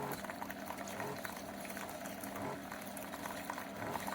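SiFENE 3-in-1 single-serve pod coffee maker brewing a large cup. Its pump hums steadily under a bubbling, crackling gurgle as hot coffee streams into a glass mug, about halfway through the brew.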